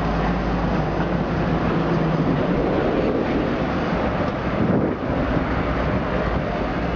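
Washing machine running, a loud steady rumbling mechanical noise with a low hum underneath. The machine is suspected of shaking because its suspension rods are rusted.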